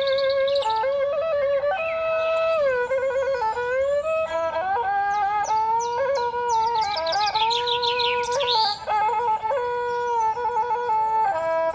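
Slow melody on a flute-like wind instrument, with notes that slide and bend, over songbirds chirping. A run of quick chirps is loudest about seven to eight and a half seconds in.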